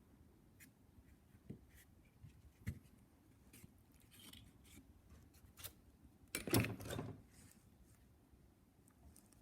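Quiet workbench handling sounds: scattered small clicks, taps and light scraping, with one louder clatter of parts about two-thirds of the way through.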